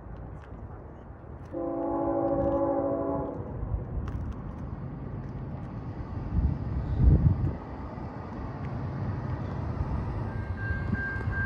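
Diesel freight locomotive sounding one multi-chime air horn blast of about two seconds, a second or two in, over the low rumble of the train. About seven seconds in comes a brief loud low surge, and near the end a steady high whine begins.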